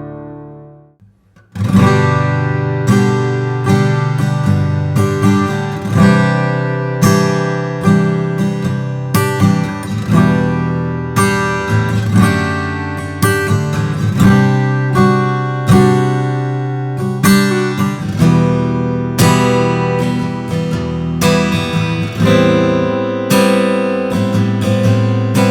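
Steel-string acoustic guitar played fingerstyle: a ringing chord dies away, about a second of silence follows, then a picked passage of single notes and chords, one or two plucks a second, each left to ring.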